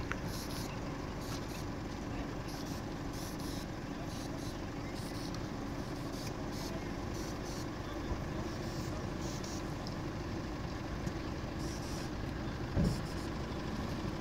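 A vehicle engine idling steadily with a low hum, with a single short low thump near the end.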